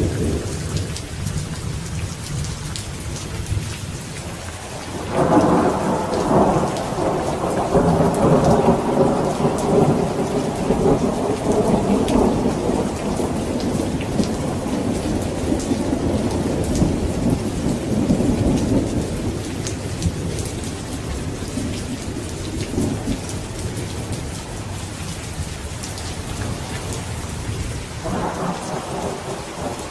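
Steady heavy rain with rolling thunder: a loud rumble breaks in about five seconds in and dies away slowly over some fifteen seconds, and another begins near the end.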